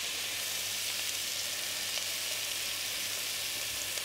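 Shredded cabbage and diced bacon sizzling steadily in a hot frying pan as a wooden spoon stirs them.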